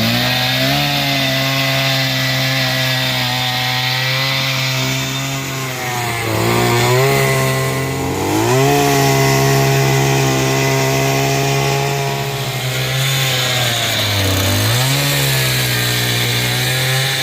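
Small engine-driven tiller running as it ploughs soft soil, a steady engine note whose pitch sags and climbs back twice.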